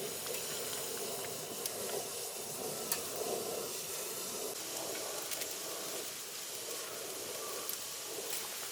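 Slices of pork belly sizzling steadily in a grill pan over a wood fire, with a few scattered pops.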